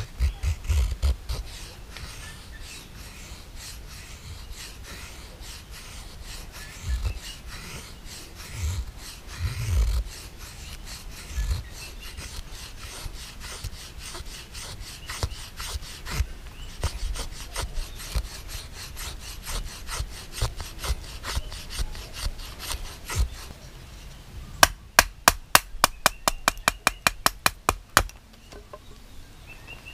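A tool scraping and cutting wood in many short strokes, with a quick run of about a dozen sharp strokes near the end.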